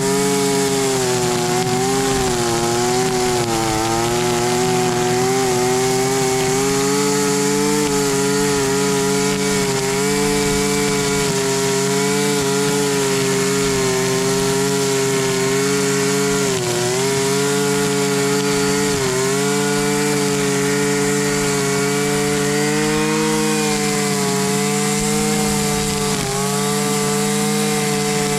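Small two-stroke engine of a Husqvarna 326LD string trimmer running steadily, its note dipping briefly a few times as the speed sags and recovers.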